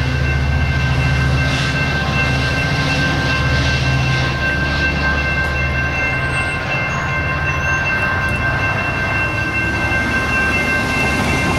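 A train going by: a deep rumble that fades after about seven seconds, under a steady high-pitched chord of several tones held for about ten seconds.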